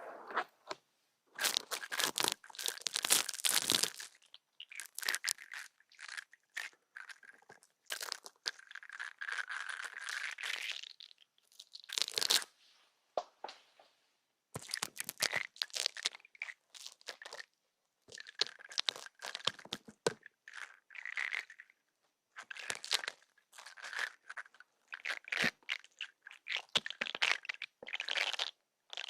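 Ear-cleaning ASMR: close-up crackly scratching and rubbing at an ear, in repeated short strokes and bursts with brief silent gaps between them.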